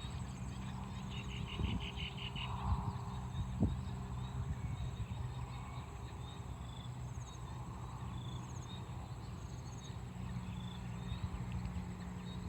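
Crickets and other insects trilling steadily at dusk, with short repeated calls from small frogs and birds over them, including a quick run of pulsed calls one to two seconds in. A low steady hum and a few soft knocks lie beneath.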